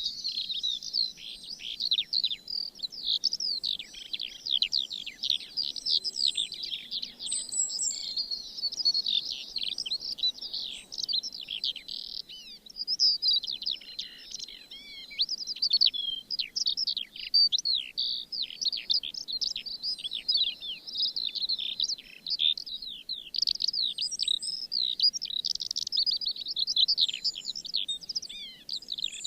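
Many small birds singing and chirping at once, a dense, continuous chorus of quick, high, sweeping notes.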